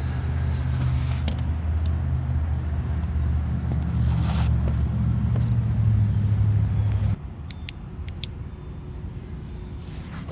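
Mercedes-Benz SL500's V8 engine idling, a steady low hum heard from beneath the car. The hum drops noticeably in level about seven seconds in, and a few faint clicks follow.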